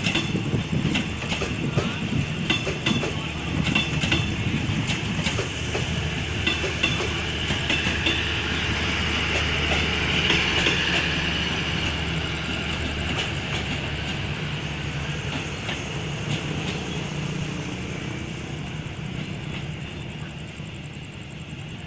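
Train running on the rails: wheels click over rail joints in the first few seconds, then a steady rumble with a high squeal that swells around the middle and fades toward the end.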